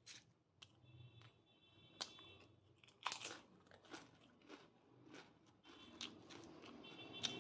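A person chewing and crunching food with the mouth close to the microphone, irregular crisp crunches, the loudest about three seconds in.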